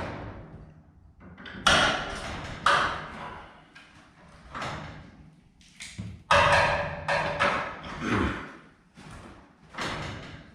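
A series of separate metallic clanks and knocks from garage door torsion-spring hardware being worked on, each sharp at the start and fading over about half a second, one of them ringing briefly.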